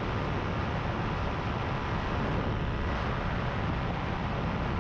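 Powered paraglider's engine and propeller running steadily in cruise flight, an even drone with a rushing hiss.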